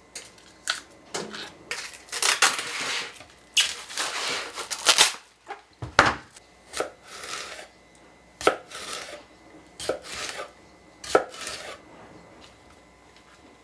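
Kitchen food preparation: a knife striking a cutting board in irregular strokes, about one a second, with some clatter of dishes and utensils.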